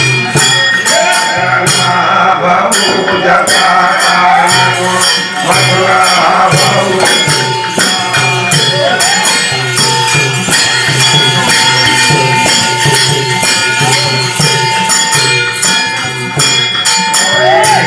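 Devi Jagran devotional music: a fast, even beat of jingling, rattling percussion with a long held note over it.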